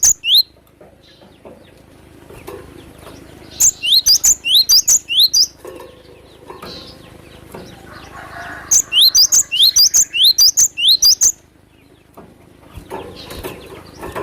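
Cinereous tit (glatik batu) calling: two bouts of quick, sharply rising high notes, about seven or eight notes in each bout, one about four seconds in and one about nine seconds in, with faint background noise between.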